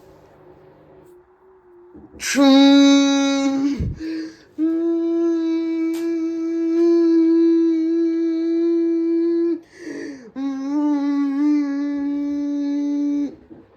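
A person's voice humming three long, steady notes at one pitch, with a short breath between each; the last note wavers.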